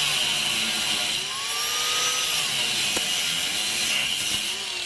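Angle grinder with a cut-off wheel cutting through the steel exhaust pipe of a 1994 Chevy S10. It runs steadily with a high whine, its pitch rising and falling a few times as it cuts.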